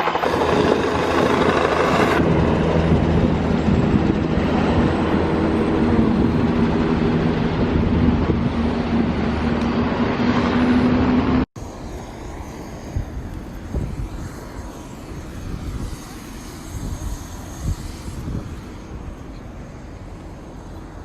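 A tour helicopter's engine and rotor running close by: a loud, steady noise with several steady engine tones. About halfway through, a cut drops it to a much quieter, steady hum with a few faint knocks.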